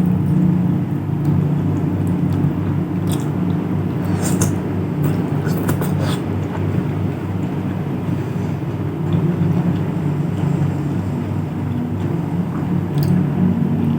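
Close-miked chewing of food, with a few sharp mouth clicks about four to six seconds in, over a steady low hum.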